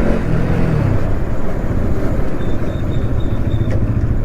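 Bajaj Pulsar NS200's single-cylinder engine running on the move, under steady wind and road noise. A faint series of about five short, high beeps comes about two and a half seconds in.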